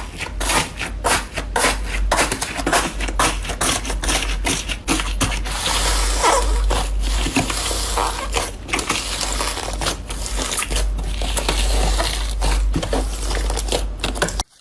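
Crunchy material being crushed by hand: a dense, continuous run of small crackles and snaps, which cuts off suddenly at the end.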